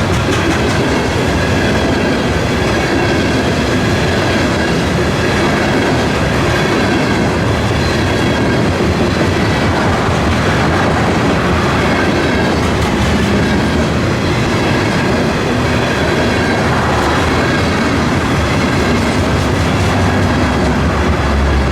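A train's cars rolling past on the rails: loud, steady wheel-on-rail noise that neither builds nor fades.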